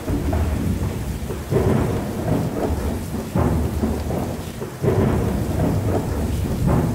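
Thunderstorm sound: steady rain with thunder rumbling in repeated swells, several rolls in a row.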